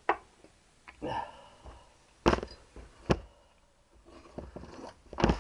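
Four sharp knocks and clicks, spaced over about five seconds, of a wooden wedge and hand tools being handled against a motorcycle cylinder head on the bench.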